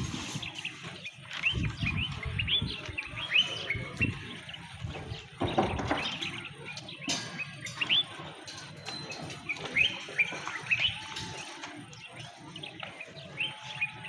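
Birds chirping: many short, quick chirps repeating throughout, over occasional low knocks and thuds.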